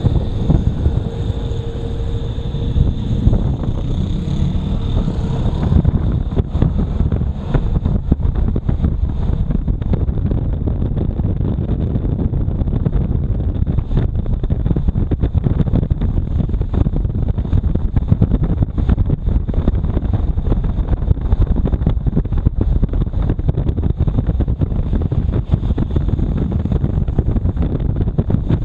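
Motorcycle riding noise: wind rushing over the microphone, with engine and road rumble underneath, loud and steady. A faint whine drops away about six seconds in.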